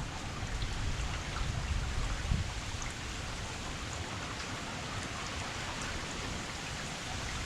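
Steady rain falling, an even hiss of many drops, with some low rumbling in the first couple of seconds.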